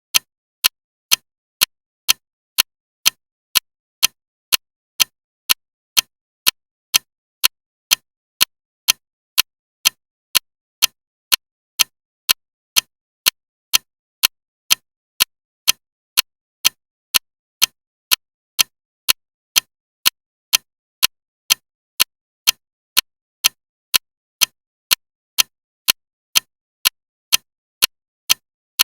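Clock ticking loudly and evenly, about two sharp ticks a second with silence between them.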